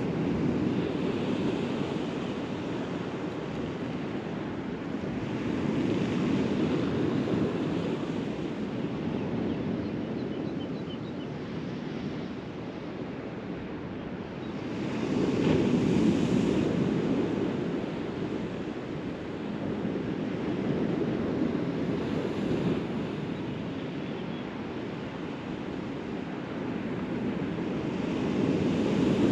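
Surf washing onto a beach, a steady rush that swells and eases every several seconds, loudest about halfway through and again near the end.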